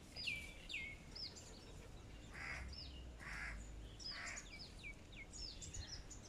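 Birds calling faintly: many short whistled notes, each sliding down in pitch, with three short harsh calls in the middle.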